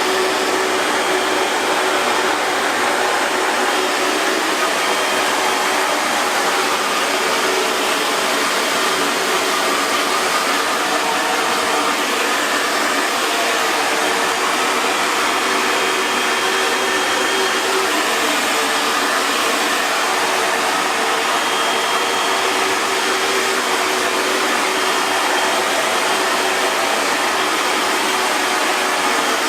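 Hair dryer running steadily, an even rushing hiss of fan and blown air with a faint motor hum beneath it.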